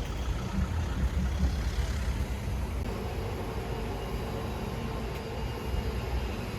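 Steady low rumble of a passing motor vehicle or street traffic, with a faint steady hum joining about halfway in.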